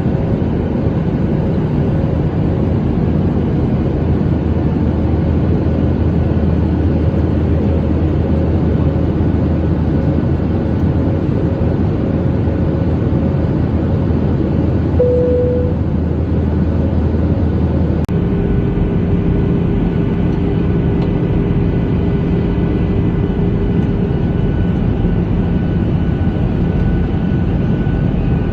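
Airliner cabin noise in flight: a loud, steady engine and air drone with faint humming tones. The mix changes abruptly about eighteen seconds in.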